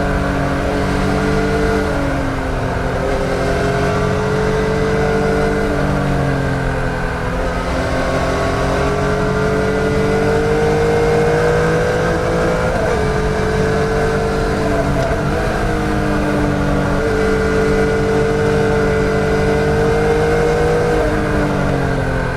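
A 2014 Yamaha MT-09's 847 cc inline-three engine under way. Its pitch climbs slowly, then drops abruptly, about five times over.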